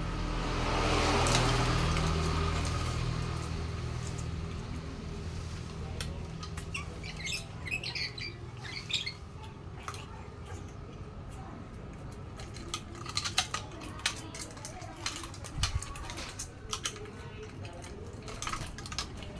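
Lory (nuri parrot) giving short, scattered squawks and chirps, in clusters about a third of the way in and again near the end. A low rumble swells and fades over the first few seconds.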